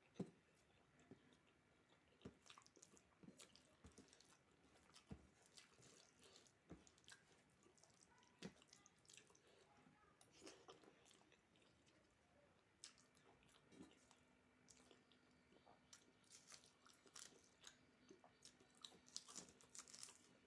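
Faint close-up chewing and mouth sounds of someone eating a meal of rice and dal, with scattered small, irregular crunching clicks.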